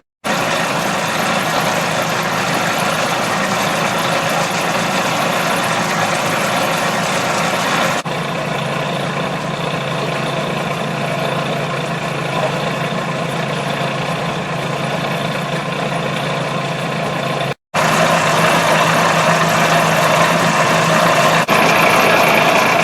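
Locomotive of the 15-inch gauge Romney, Hythe & Dymchurch Railway running steadily, heard in several joined clips with abrupt cuts and a brief dropout about three-quarters of the way through.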